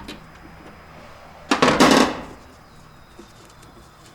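A single loud clatter about one and a half seconds in, lasting under a second, as parts in a Jeep engine bay are worked loose by hand. Otherwise faint shop background.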